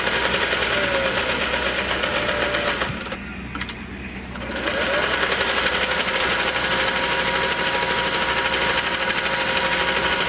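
Singer sewing machine running at speed, stitching a decorative pattern set by a plug-in top hat cam, with a fast, even clatter. It stops about three seconds in and starts sewing again a second and a half later.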